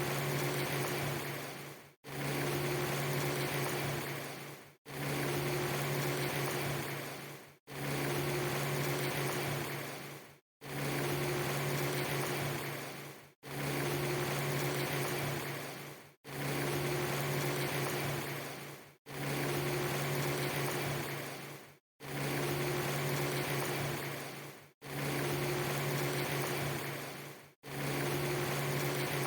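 A steady hiss over a low hum, in a loop of about three seconds. It fades a little and drops out briefly before each repeat, about ten times here.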